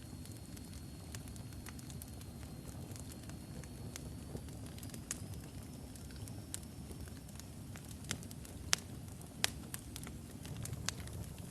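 Wood fire of burning logs in a fireplace: a steady low rumble of flame with scattered sharp crackles and pops, the loudest snaps coming about eight to nine and a half seconds in.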